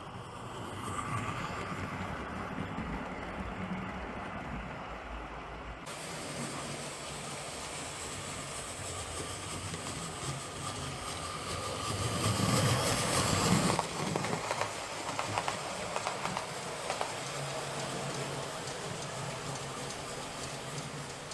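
00 gauge model locomotive, a white metal kit of a Southern Railway D1 4-4-0 driven by an old K's motor, running round the layout with its coaches: a steady motor hum and wheel rumble on the track. It is loudest for a couple of seconds about two-thirds of the way through, with light clicks after that.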